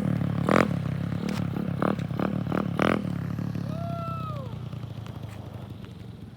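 Dirt bike engine running steadily and fading away, with a few clatters and scrapes in the first three seconds and a short rising-then-falling tone about four seconds in.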